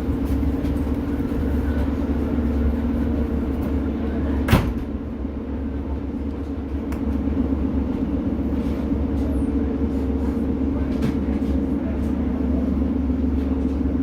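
Cabin sound of a Class 150 diesel multiple unit: a steady low engine drone and running noise throughout. There is a single sharp knock about four and a half seconds in.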